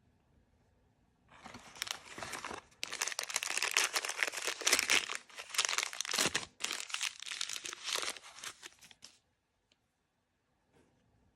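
Crinkly packaging being torn open and crumpled by hand: a dense run of crackling and tearing that starts about a second in, breaks off for a moment, and stops about two seconds before the end.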